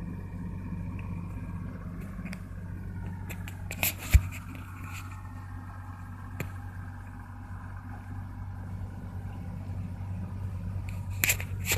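Engine running steadily with a low, even hum. Sharp clicks come about four seconds in and again near the end.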